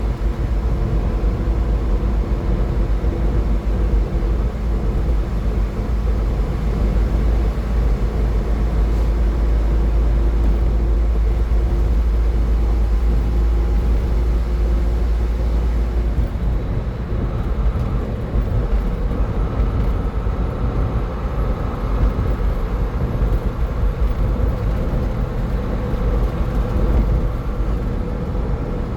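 Car driving on a highway: a steady low rumble of road and engine noise with a constant hum, and no sudden events.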